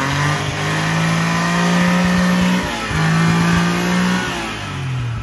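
1984 Maruti 800's three-cylinder petrol engine revved through its changed exhaust. The note climbs and is held high, dips briefly about halfway, is held high again, then falls back toward idle near the end.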